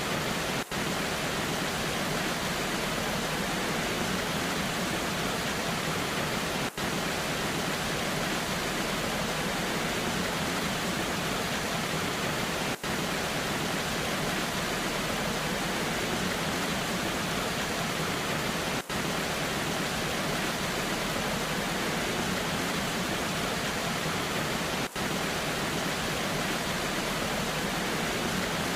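Waterfall in the rain: a steady, even rush of falling water with no distinct drops or events, broken by a very brief dip in level about every six seconds.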